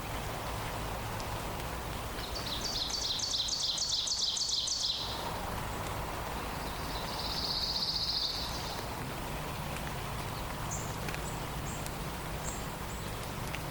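Songbirds singing in a forest dawn chorus over a steady background hiss. About two seconds in, one bird gives a fast series of sharp repeated high notes lasting about three seconds. A buzzy high trill follows, then a few faint short chirps.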